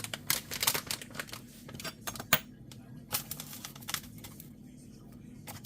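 A tablespoon tapping and scraping against a bowl while powdered sugar is spooned into whipping cream: irregular light clicks, with one sharper knock about two seconds in, over a low steady hum.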